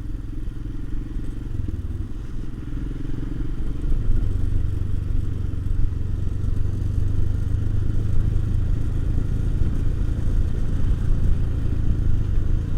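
Royal Enfield Himalayan's single-cylinder engine running steadily under way, the engine note getting louder about four seconds in as the throttle opens.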